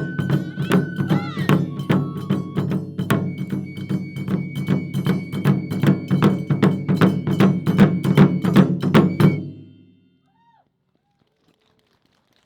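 Japanese taiko drum ensemble playing fast, dense strikes under a high held melody line, the piece ending abruptly about nine and a half seconds in, after which it goes almost quiet.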